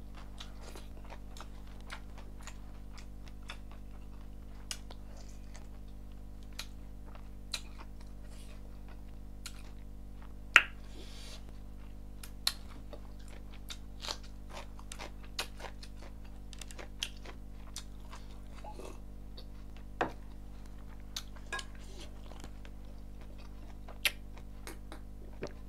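Close-miked mouth sounds of a person eating with their fingers: chewing and scattered short wet clicks and smacks, the loudest about ten seconds in. A steady low hum runs underneath.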